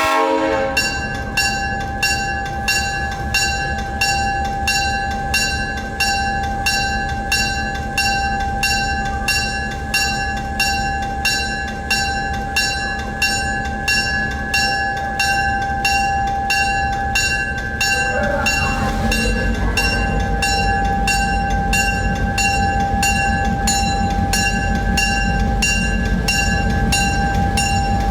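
Locomotive bell on an EMD GP9 diesel-electric ringing steadily, about one stroke a second, over the sixteen-cylinder diesel engine. About 18 seconds in, the engine's low rumble grows louder as it throttles up to pull the train away.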